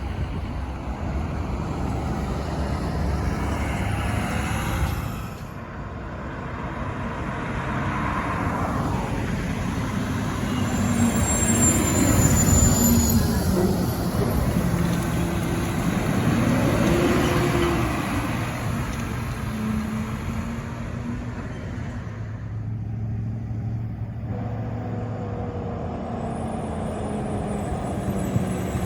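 Garbage trucks' diesel engines running as the trucks pull past, the engine pitch rising and falling as they rev and shift, loudest about twelve seconds in.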